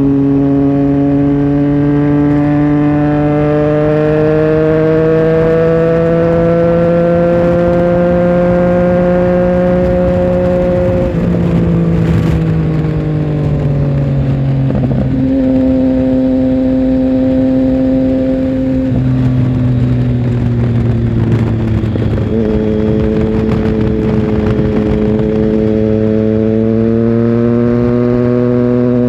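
Triumph Tiger Sport 1050's inline three-cylinder engine under way, heard onboard. Its note rises steadily for about ten seconds, changes in pitch in steps several times midway, then rises again near the end.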